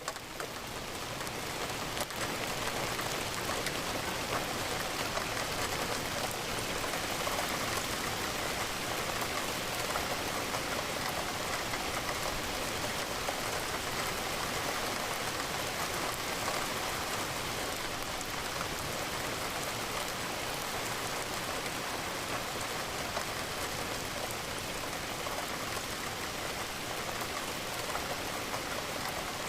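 Steady rain pattering against a window pane, fading in over the first second or two.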